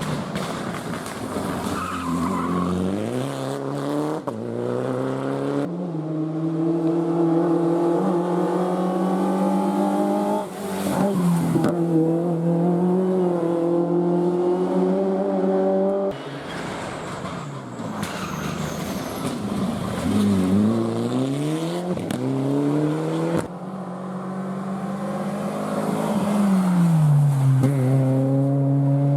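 Rally car engines accelerating hard, the engine note climbing and dropping sharply at each gear change. The pitch dips and climbs again around the middle, as when a car slows for a corner and pulls away. Several passes are cut one after another.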